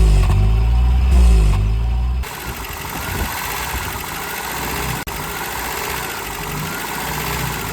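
Toyota 22RE 2.4-litre four-cylinder engine running rough at idle, which the owner suspects is caused by a faulty air intake valve. The sound changes abruptly about two seconds in: a heavy, rising and falling low drone gives way to a steadier, noisier idle.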